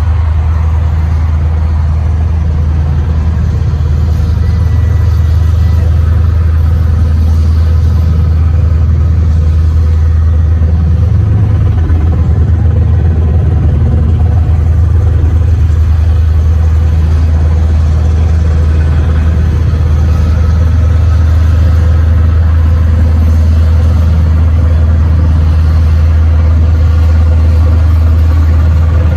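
Helicopter in flight: a loud, steady low drone of rotor and engine that holds unchanged throughout.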